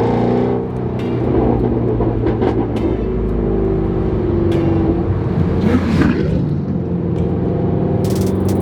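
Ford Shelby GT350R's 5.2-litre flat-plane-crank V8 running on the road, its pitch rising and falling with the throttle.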